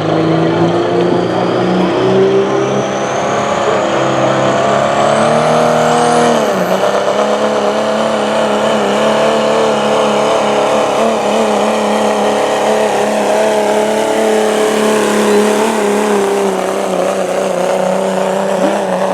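Diesel pickup truck engine at full throttle under heavy load, pulling a weight sled. Its pitch climbs, drops sharply about six seconds in, then holds high and wavering for the rest of the pull. A high turbocharger whistle rises over it in the first seconds.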